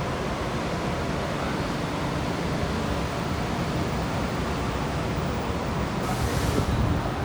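Steady rushing noise of wind and sea aboard a cruise ship, with a brief louder hiss about six seconds in.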